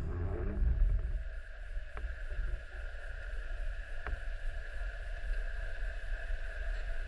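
Muffled, steady rumble of moving water picked up by the camera's microphone, with two faint clicks about two and four seconds in.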